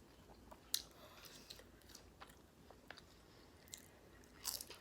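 Faint close-miked chewing of food, with scattered small crunchy clicks and a louder crunch near the end.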